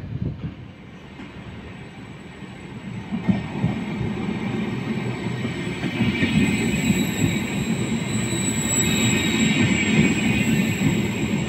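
A Trenord regional train of double-deck coaches, hauled by an E464 electric locomotive, rolls along the station platform. It comes in louder about three seconds in, and a thin high squeal sets in about halfway through over the rumble of the wheels.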